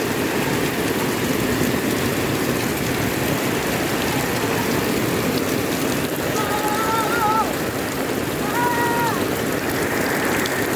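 Steady rain falling, a dense even hiss, with two short high-pitched calls a little past the middle.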